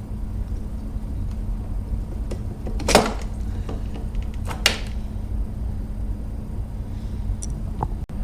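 Clanks and clicks of metal engine parts being handled while the top end of a two-stroke dirt bike engine is taken apart, the loudest clank about three seconds in and a second one shortly after, over a steady low hum.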